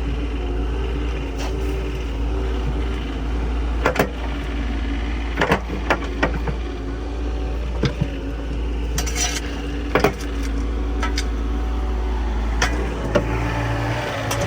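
Steady low engine hum, with about eight sharp metal clinks and scrapes of shovels and tools striking in a dug hole.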